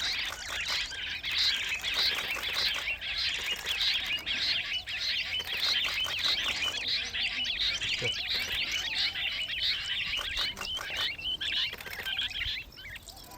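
Many small birds chirping and chattering at once in a dense, continuous chorus of short overlapping calls, easing off shortly before the end.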